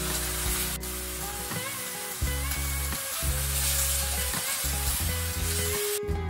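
Ground beef and mushroom filling sizzling in a frying pan while being stirred and scraped with a spatula; the sizzling cuts off suddenly near the end.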